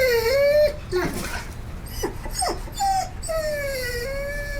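A dog whining and whimpering: a long drawn whine, then a few short yips, then another long whine that slides down in pitch near the end.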